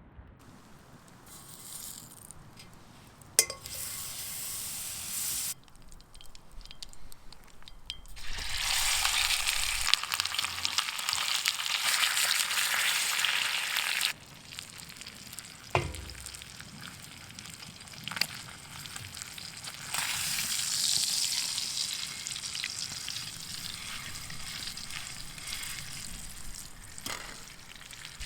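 Ribeye steak sizzling in a pan over a campfire, with a few sharp knocks of a utensil. The sizzle jumps louder and softer several times, loudest for a stretch in the middle and again near the end.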